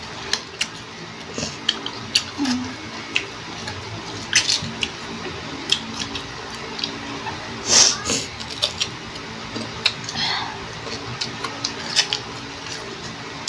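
Close-up mouth sounds of unripe Indian mango being bitten and chewed: irregular wet crunches, smacks and slurps, with a faint steady hum underneath.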